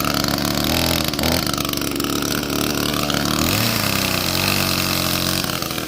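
Gas chainsaw's two-stroke engine running, its speed rising and falling, with a drop in pitch about three and a half seconds in.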